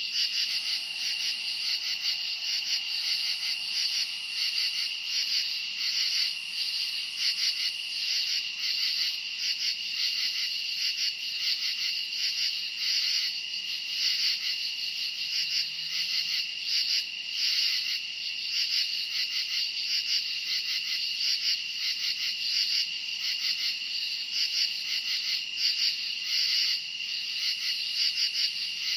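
Night chorus of crickets chirping: a steady high trill with a faster pulsing chirp layered over it, unbroken throughout.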